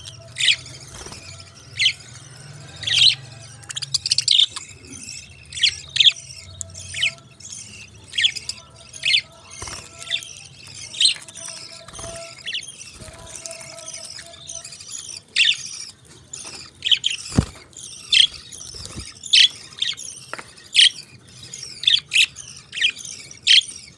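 Pet parakeets chirping: a steady stream of short, sharp, high calls, one or two loud ones a second, with quieter chatter between.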